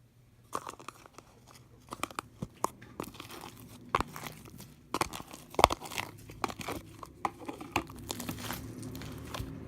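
Blueberry sherbet slime being squished and stretched, giving irregular crunchy crackles and sharp pops that start about half a second in and grow denser.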